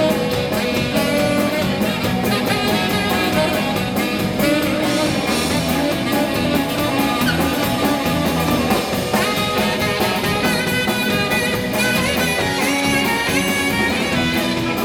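Live rock and roll band playing an instrumental break between sung verses, guitar to the fore over bass and drums.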